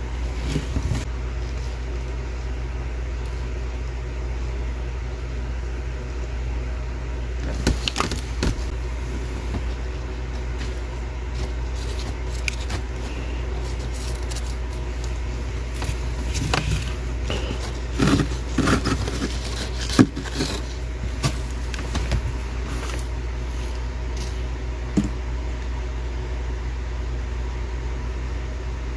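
A steady low mechanical hum, with scattered crisp crunches and cracks of freezer frost being broken, in small clusters about 8 s in and again from about 16 to 21 s, the sharpest one near 20 s.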